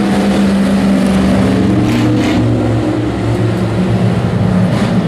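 Several hobby-class race truck engines running together: a steady drone of overlapping engine tones whose pitch shifts slightly about two seconds in.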